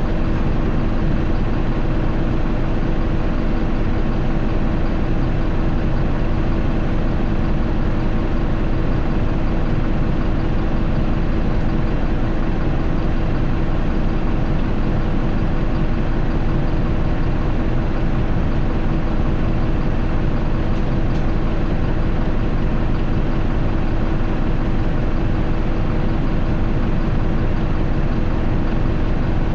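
Isuzu Erga city bus's four-cylinder turbodiesel heard from inside the cabin, running at a steady idle with one unchanging engine tone.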